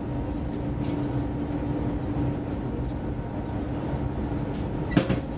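Steady running noise of a passenger train heard from inside the carriage: low rumble of the wheels on the rails with a constant hum, and a single sharp click near the end.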